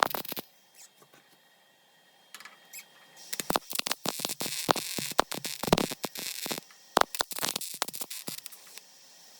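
MIG welder laying welds on sheet steel: a short crackling burst, a pause, a longer stretch of arc crackle, then scattered pops near the end as the welder runs out of wire.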